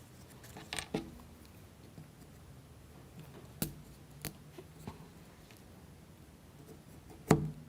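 Wooden toothpicks pinning a plywood model wheel being snipped off, a handful of separate sharp clicks spread out with pauses between them; the last one, near the end, is the loudest.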